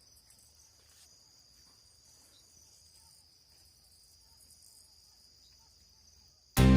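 Crickets trilling steadily in one high, even band, faint. Loud music cuts in suddenly right at the end.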